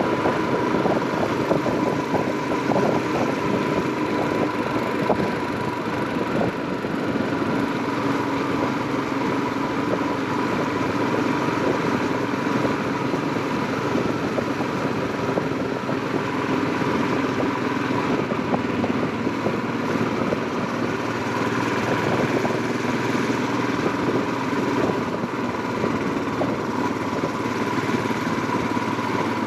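Royal Enfield Himalayan's 411 cc single-cylinder engine running at a steady pace while riding.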